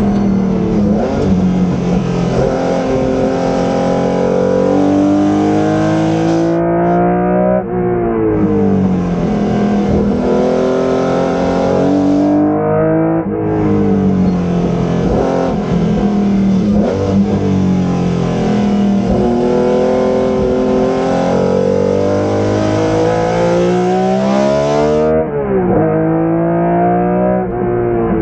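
1981 BMW M1 IMSA race car's straight-six engine running hard on track: the revs climb for several seconds and fall away sharply at each gear change, three times over, with quick dips and rises near the end as it shifts down.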